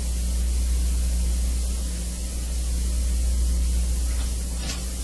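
Steady low electrical hum with an even hiss over it, the noise floor of the recording, with no other distinct sound.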